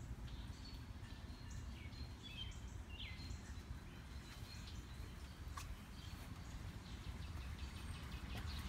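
Birds chirping outdoors: scattered short high calls, one of them a falling note about three seconds in, over a steady low rumble.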